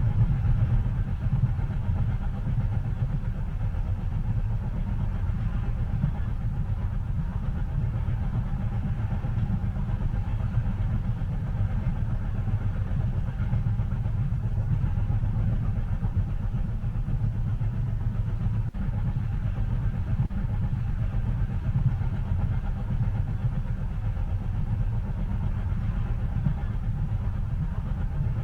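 Steady low rumble of a train running, heard from inside the passenger cabin.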